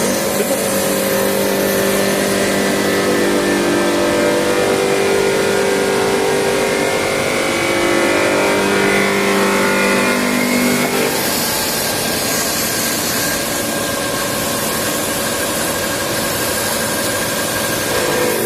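Waterjet cutting machine running steadily: a machine hum with steady tones over a hiss. About eleven seconds in, the hum tones fade and a higher hiss comes up.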